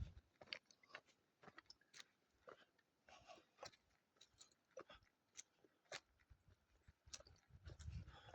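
Faint footsteps crunching on dry woodland ground, about two steps a second, with a brief low rumble near the end.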